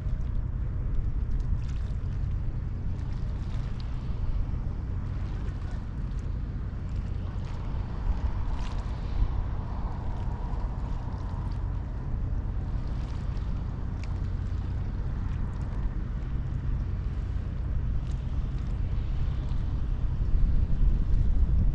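Ro-Ro passenger ferry's engines giving a steady low rumble, with wind noise on the microphone that grows louder near the end.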